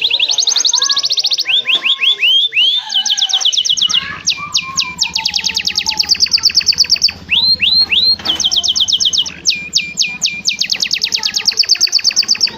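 Domestic canary in full song: fast trills of one note repeated many times a second, some notes sweeping up and some down, switching to a new trill every second or two. A low steady hum sits under the song from about four seconds in.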